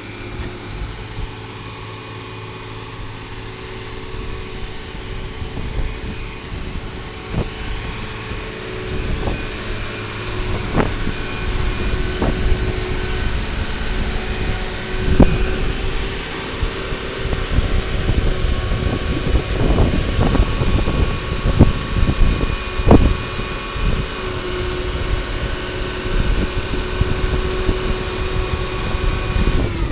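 Diesel garbage truck, a 1995 WhiteGMC side loader with a Volvo VED7 engine, running with a steady hydraulic whine whose pitch shifts a couple of times. Scattered knocks and clunks come more often in the second half.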